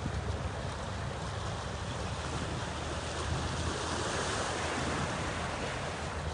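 Black Sea surf breaking and washing on the shore, a steady rushing that swells a little in the middle, with wind buffeting the microphone.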